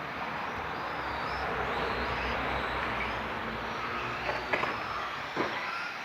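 Radio-controlled race cars running on a wet track: a steady hiss with thin motor whines rising and falling, and a few sharp knocks between four and five and a half seconds in.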